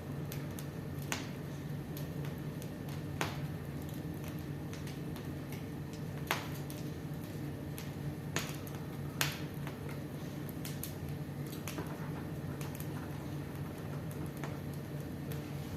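Fire in a fireplace crackling: sharp, scattered pops every second or two over a steady low rumble.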